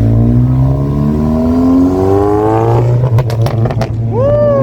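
A car engine accelerating hard as the car pulls away, its note rising steadily for nearly three seconds, then a quick run of exhaust crackles and pops as the driver lifts off. A steady low engine drone from another idling car runs underneath.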